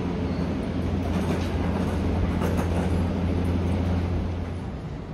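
Electric train at a station platform, giving a steady low hum that drops away a little before the end.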